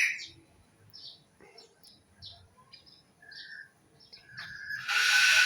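Birds chirping: many short, high chirps throughout, a brief whistled note about three seconds in, and a louder, noisy burst near the end.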